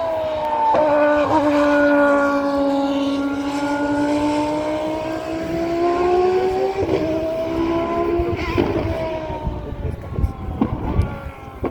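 Formula 1 race car engine running hard at high revs, its note dipping slowly and rising again, with short breaks about seven and eight and a half seconds in, like gear changes. Near the end the engine note gives way to rough low rumbling and a few knocks.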